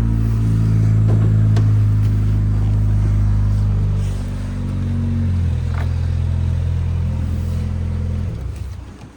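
The Lotus Elan SE Turbo's Isuzu turbocharged four-cylinder engine running steadily at idle. Its note settles a little lower about four seconds in, and it cuts out near the end.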